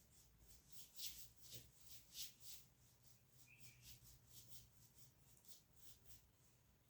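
Faint, irregular small clicks and rustles, a few a second, over a low hum.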